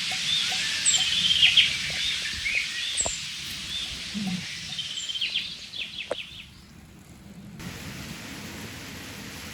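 Several songbirds chirping and singing over a steady rush of flowing river water. The birdsong thins out, and about seven and a half seconds in the sound changes abruptly to a plain, steady rushing hiss.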